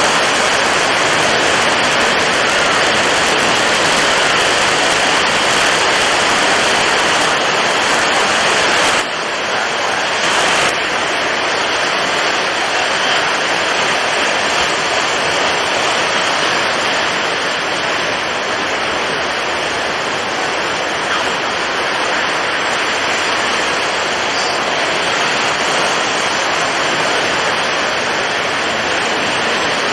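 Storm at sea: strong wind and heavy waves blending into a dense, steady rush of noise. About nine seconds in, the sharp top hiss drops away suddenly, leaving a duller rush.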